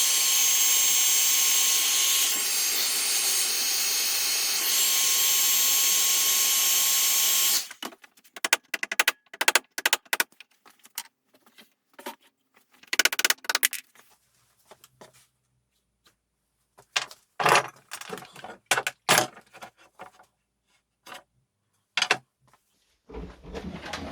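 A handheld power tool runs steadily for about seven and a half seconds, then cuts off suddenly. Scattered short clicks and knocks follow as tools and parts are handled.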